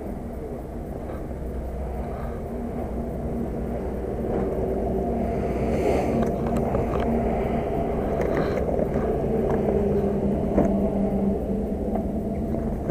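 Motorcycle engine idling steadily, with a few light clicks and rustles from handling the bike's gear.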